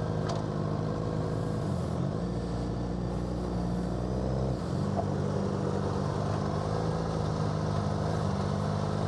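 Sport motorcycle engines idling steadily, their note shifting slightly a couple of times.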